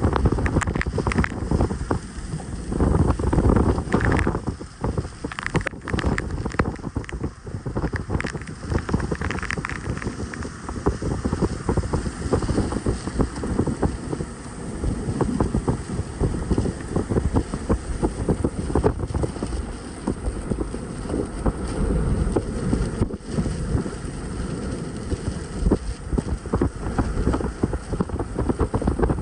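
Wind buffeting the microphone: a loud, low rushing noise that surges and eases in gusts.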